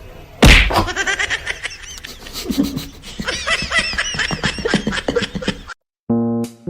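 A sudden loud thud, then a person laughing in quick, choppy breaths for about five seconds. The laughter cuts off, and piano music starts near the end.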